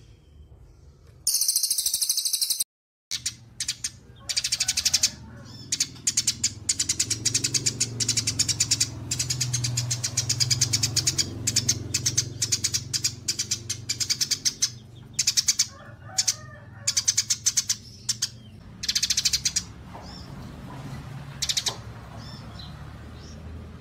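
Small songbirds chattering in bouts of very rapid, high, dry chirps, the bouts stopping and starting every second or two and thinning to sparser, quieter calls near the end; a low steady hum underneath.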